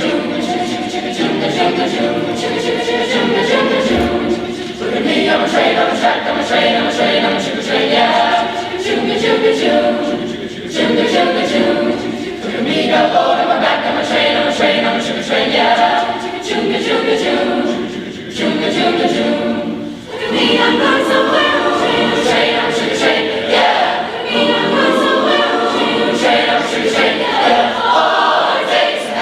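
A large high school choir singing in phrases of several seconds, with short breaks between them.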